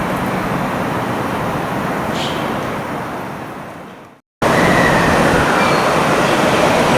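A JR 521-100 series electric train stands at the platform with a steady noise that fades out about four seconds in. After a brief silence the two-car train is pulling away, its traction motors starting a whine that slowly rises in pitch over the rumble of the wheels.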